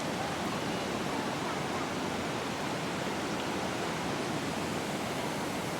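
Steady rush of water pouring over a waterfall, an even noise without a break.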